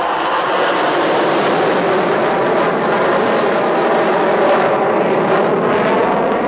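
Polish Air Force F-16C fighter's Pratt & Whitney F100 jet engine, a steady loud roar during its display flight, with the high hiss thinning out near the end.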